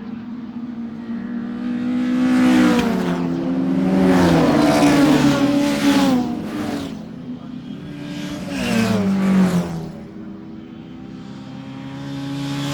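Racing car engines passing at speed one after another, about four passes, each engine note swelling and then dropping in pitch as the car goes by.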